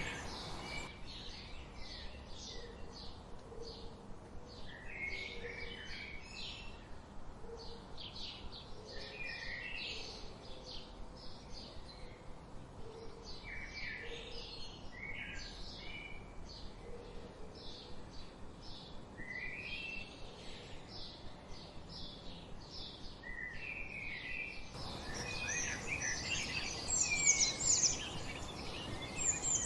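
Several wild songbirds chirping and singing, mostly quick short chip notes repeated over and over. About 25 seconds in, a denser and louder burst of song takes over.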